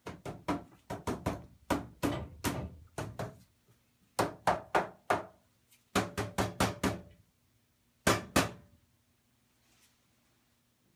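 Bursts of rapid, sharp knocking and banging, three to six strikes at a time, each with a short ringing tail.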